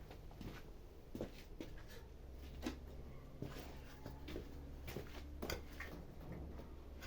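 Light handling noises: scattered soft knocks, taps and rustles of small objects being moved and set down by hand, over a faint steady low hum.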